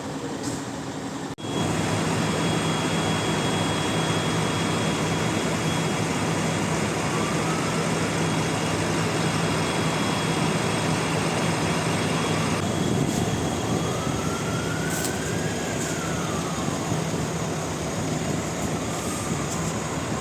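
Steady traffic and engine noise with a constant low hum, while a siren wails, rising and falling slowly a few times.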